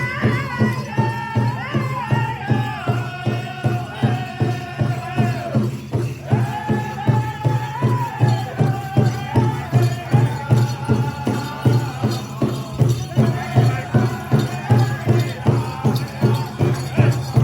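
Powwow drum group singing: several voices sing high, falling phrases over a steady big-drum beat of about three strokes a second. The singing breaks off briefly twice and starts again while the drum keeps going.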